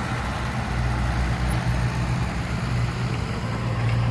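Heavy diesel engine of earth-moving equipment running steadily with a low, even hum.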